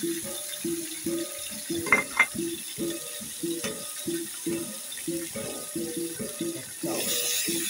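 Pork pieces sizzling in a hot wok over background music with a repeating melody. There are two sharp taps about two seconds in, and the sizzling grows louder near the end as a spatula starts stirring.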